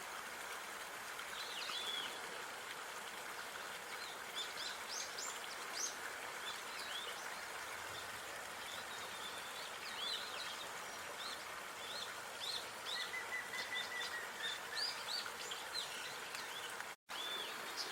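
Outdoor park ambience: small birds chirping and calling over a steady background hiss. The sound drops out for an instant near the end.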